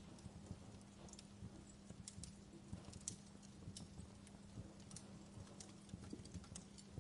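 Wood fire crackling in a fireplace: irregular sharp pops and snaps over a soft low rumble of burning, with a faint steady low hum underneath.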